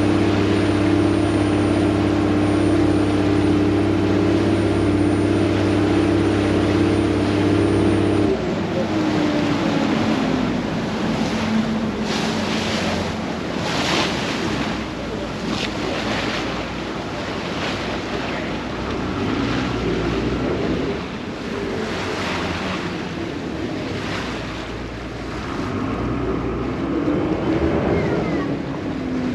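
Vaporetto water bus engine running with a steady hum, then throttling down about eight seconds in, its pitch falling away. After that, wind and water splashing along the hull.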